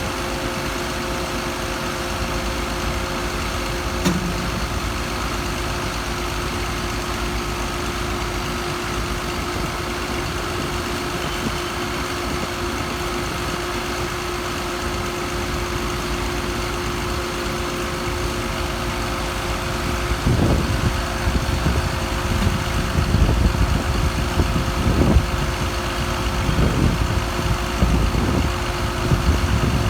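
An engine idling with a steady hum. Louder, uneven low rumbles come in about two-thirds of the way through.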